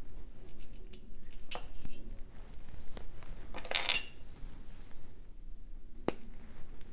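Jewellery cutters snipping metal rhinestone chain, a few sharp clicks spread through, with small metallic clinks as the chain is handled.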